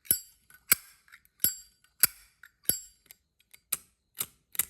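Brass Zippo lighter's hinged lid being flicked open and snapped shut over and over: about eight sharp metallic clicks with a short bright ring, roughly one every half second.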